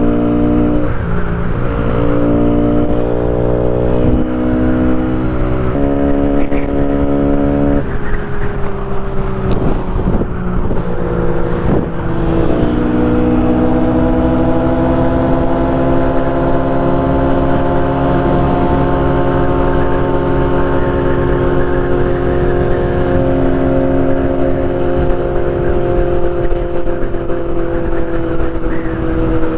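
Small single-cylinder motorcycle engine of a Kawasaki Z125 under way. Its pitch steps between gears in the first several seconds, then it holds a steady cruise for the rest, rising gently and easing off, with wind rumble underneath.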